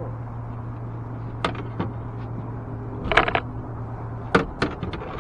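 Scattered sharp knocks and clicks, with a quick cluster about three seconds in, over a steady low hum that cuts off about four and a half seconds in.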